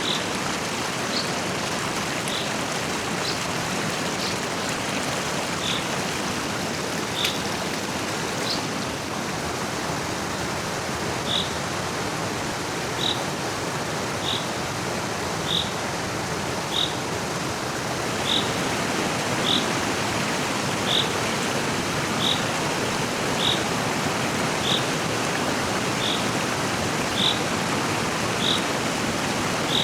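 Rushing stream water running steadily, with short high chirps over it: a few scattered ones, then from about a third of the way in, one chirp roughly every second and a bit.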